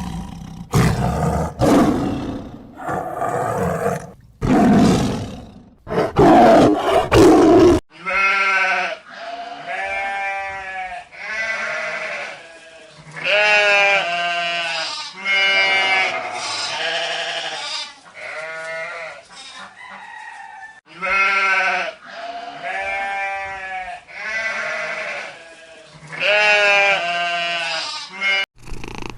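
Animal calls in two recordings: for about the first eight seconds loud, rough, unpitched calls, then a run of short pitched calls, repeated every second or two, from a farm animal.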